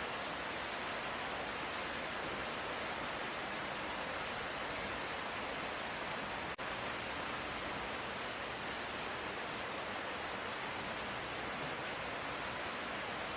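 Light rain falling as a steady, even hiss, with no thunder. A momentary dropout about halfway through.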